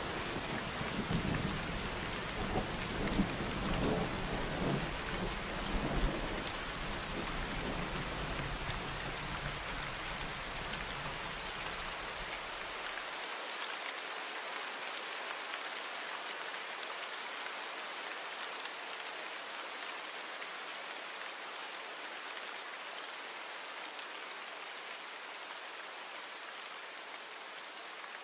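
Steady rain hiss with a low rumble of thunder rolling and dying away over the first dozen seconds; the rumble cuts off suddenly about 13 seconds in, leaving only the rain, which slowly fades.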